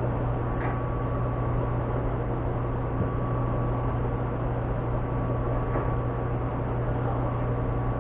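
Snow blower engine running steadily with a constant low hum.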